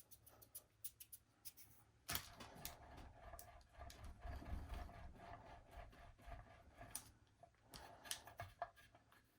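Faint rubbing and light knocks of hands rolling soft polymer clay into a thin rope on a work surface, louder from about two seconds in.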